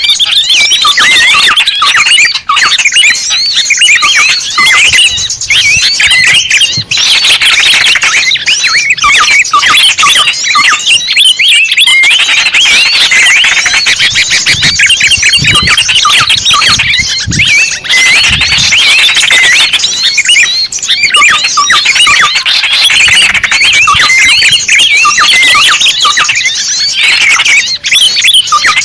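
Bird-lure (pikat) recording of many small birds calling at once: loud, dense, fast overlapping high chirps and squeaky calls that run without pause.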